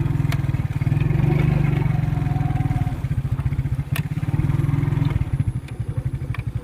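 Motorcycle engine running under changing throttle, its level swelling and easing as it is ridden, with a sharp click about four seconds in.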